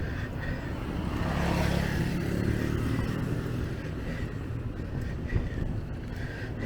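A motor vehicle's engine running close by on the road, growing louder about a second in and then fading, over a steady low rumble.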